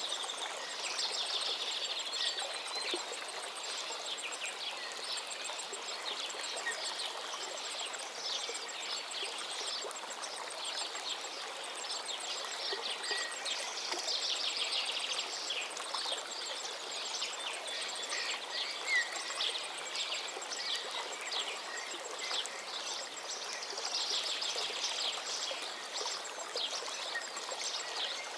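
Many birds chirping and chattering continuously over a steady rushing background noise, with one short louder call about two-thirds of the way through.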